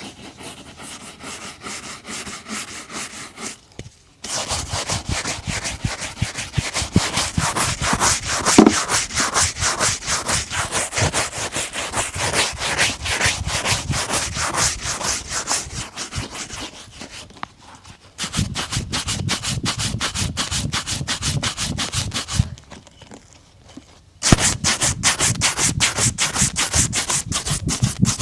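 Quick back-and-forth rubbing strokes on a boot, worked by hand during a shoe restoration. They come in four bouts separated by brief pauses.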